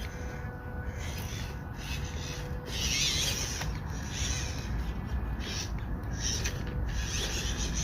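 Small RC crawler truck driving over rock: its 260 brushed motor and gearbox whir in stop-start bursts as the throttle is worked, with the tyres scraping and scrabbling on stone.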